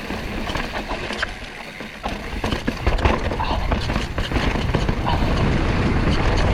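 Mountain bike clattering down a rocky trail, with tyres and frame rattling in quick knocks over a low wind rumble on the microphone. It dips quieter about a second and a half in, then grows louder from about two and a half seconds.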